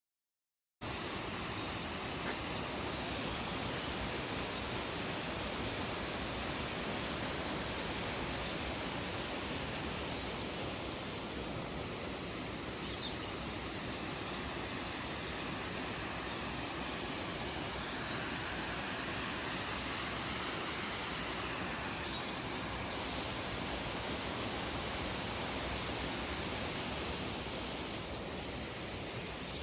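Waterfall rushing steadily, cutting in abruptly just under a second in after silence.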